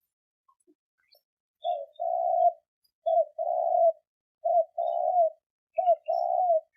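Spotted dove cooing: three two-part coos, each a short note followed by a longer one, about a second and a half apart, starting near two seconds in.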